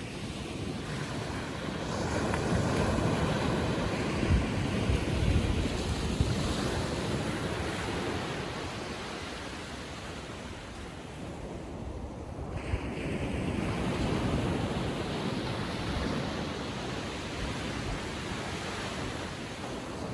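Small ocean waves breaking and washing up the beach on a calm sea, the surf swelling and easing twice, with wind rumbling on the microphone.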